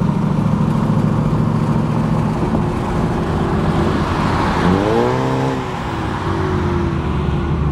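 A car engine running steadily. About four to five seconds in, a car passes and accelerates, its engine note rising briefly, then a steady low engine sound continues.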